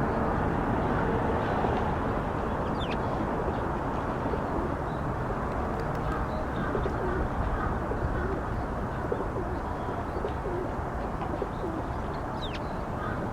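Eurasian tree sparrows giving a few brief high chirps, about three seconds in and again near the end, over a steady low outdoor rumble.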